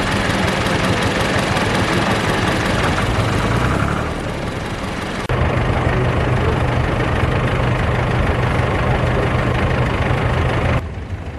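International Harvester W-4 tractor's engine idling steadily; the sound dips about four seconds in, jumps back abruptly a second later and drops away near the end.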